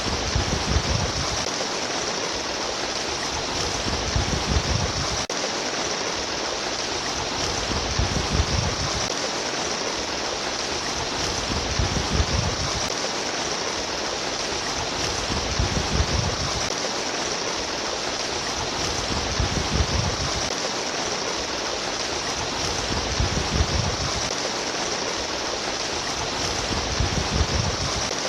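Stream water babbling and splashing in a steady rush, with a low swell that comes back about every four seconds in a regular cycle.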